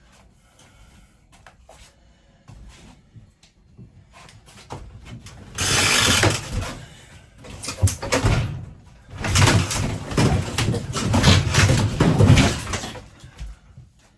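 RV interior wall paneling and framing being pried and wrenched loose by hand: a few light knocks at first, then loud stretches of ripping, cracking and scraping over the second half.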